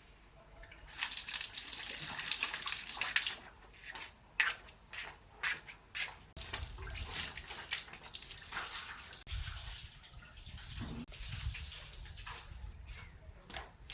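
Water running and splashing in uneven bursts, with a few sharp knocks, and a low rumble through the second half.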